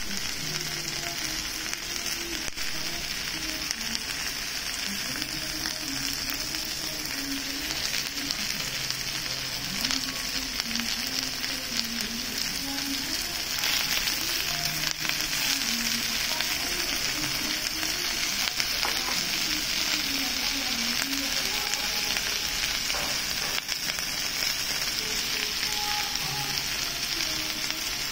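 Food sizzling steadily on a hot domed cast-iron Genghis Khan grill pan: vegetables and sliced lamb frying as the meal starts to cook.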